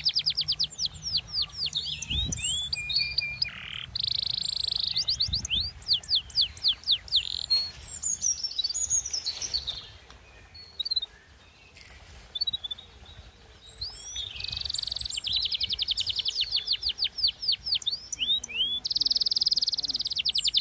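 A bird singing repeatedly. Each high song is a buzz running into a fast series of short notes, then a few downward-slurred whistles. There is a quieter gap of a few seconds about halfway through.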